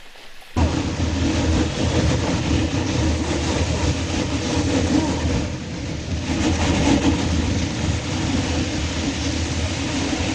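A canoe hull grinding and crunching through lake ice and slush in a continuous rumble, starting suddenly about half a second in.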